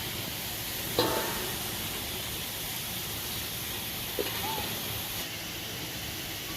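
Waterfall rushing steadily, with a sharp knock that rings briefly about a second in and a smaller knock around four seconds.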